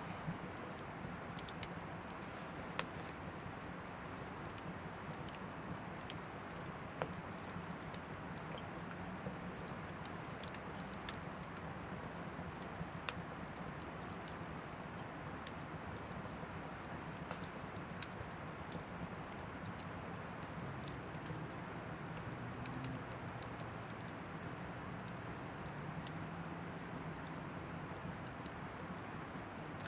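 Oak firewood burning in an Anevay Frontier Stove Plus wood stove: a steady low rush of fire with scattered, irregular crackles and pops, a few of them louder.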